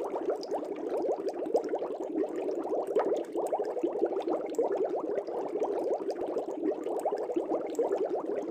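Aquarium air bubbles rising and bursting at the water surface in a fish tank: a steady, dense stream of small bubbling pops.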